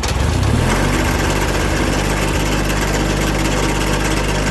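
John Deere 317 garden tractor engine, just started, with its revs climbing over the first second and then running steady.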